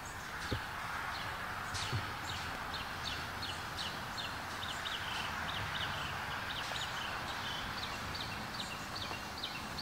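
Outdoor ambience: a bird calling in a quick run of short, high chirps, about three a second, over a steady background hiss.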